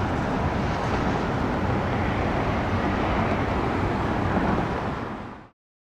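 Jet airliner engine noise, a steady rumble and rush of an aircraft taking off or climbing out, which fades out quickly about five seconds in.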